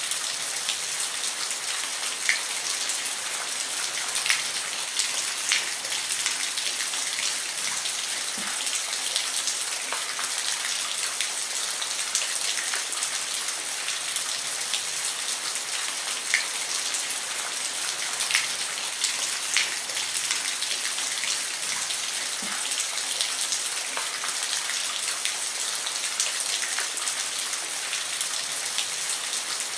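Steady rain falling on a roof: a dense, even hiss with single louder drops ticking now and then.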